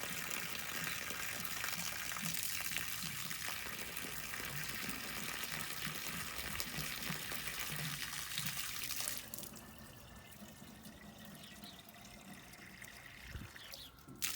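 Water pouring steadily into the snowcat engine's radiator as its cooling system is filled with plain water for a flush. About nine seconds in, the pour stops and only a faint trickle goes on, with a brief knock near the end.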